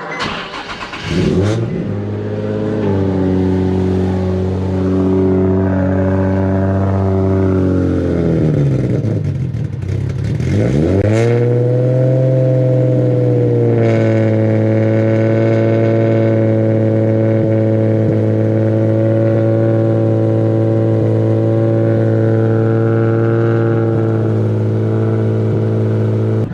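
Cold start of a turbocharged Nissan 350Z HR's VQ35HR V6: the starter cranks, the engine catches about half a second in with a rising rev flare, then settles to a high cold idle. Around eight seconds in the revs sag and pick back up, and it then holds a steady fast idle.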